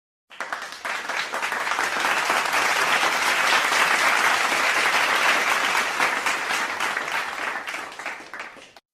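A crowd applauding: dense clapping that swells over the first couple of seconds, holds, then thins out and stops abruptly near the end.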